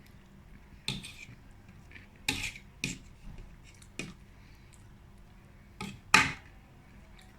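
Eating a lettuce and cabbage salad: a handful of short clinks of cutlery on a dish and crisp crunches, the loudest about six seconds in.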